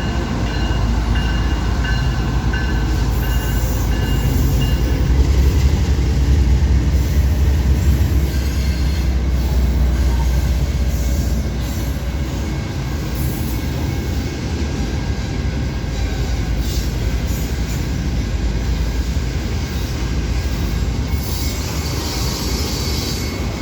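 Freight train rolling past, steel wheels on rail with a heavy rumble. A thin, high wheel squeal sounds over the first few seconds, and the rumble is loudest in the middle.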